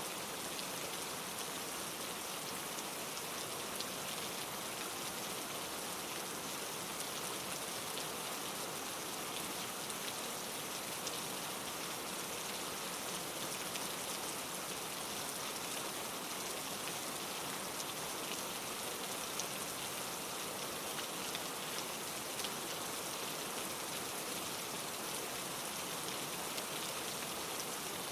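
Steady rain: an even hiss with many small drop taps scattered through it.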